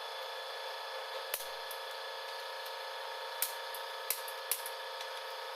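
A few scattered sharp metal clicks and taps from hand tools handled on engine parts during a diesel engine rebuild, over a steady background hum.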